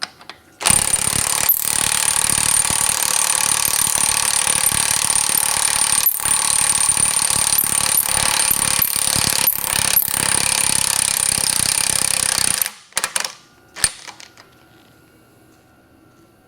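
Large impact wrench hammering on the stuck 1.5-inch piston nut of a hydraulic cylinder: a rapid, continuous rattle with a steady high whine over it. It runs for about twelve seconds without breaking the nut loose, then stops abruptly, followed by a few clicks.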